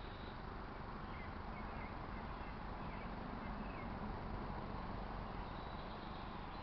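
Outdoor ambience: a steady background rush with a few faint, short bird chirps, most of them about two to three and a half seconds in.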